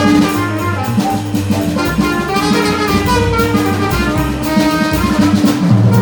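Live jazz combo playing: alto saxophone and trumpet lines over bass and drum kit with cymbals, landing on a loud accented hit at the very end.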